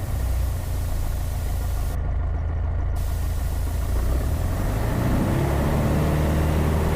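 Piper Cherokee's piston engine heard from the cockpit, running steadily and then rising in pitch about five seconds in as the throttle is opened for the takeoff roll of a touch and go.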